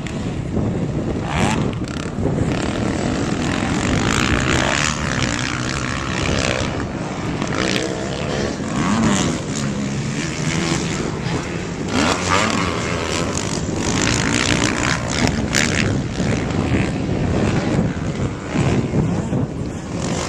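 Motocross dirt bike engines racing, their pitch rising and falling as the riders rev and shift.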